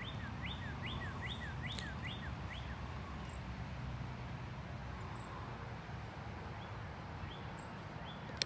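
A bird calls a short, repeated chirp about three times a second for the first two or three seconds, over a steady low background rumble. A single sharp click comes at the very end.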